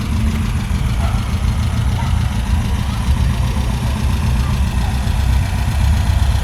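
Car engine idling steadily, a loud low rumble, with faint voices in the background.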